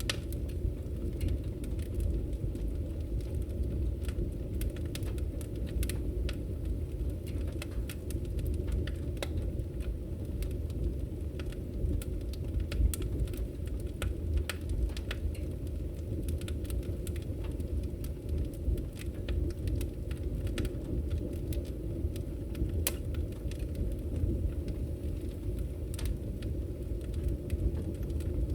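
Firewood burning: a steady low rumble of the fire with frequent, irregular sharp crackles and pops.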